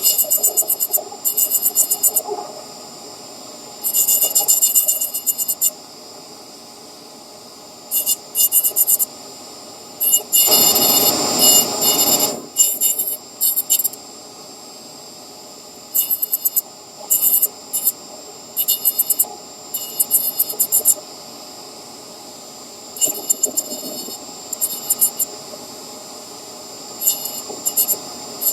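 Repeated bursts of scratchy rubbing as a small carved nut figure is polished by hand, each lasting about a second, over a steady faint hum. About ten seconds in comes a longer, fuller stretch of rubbing of about two seconds.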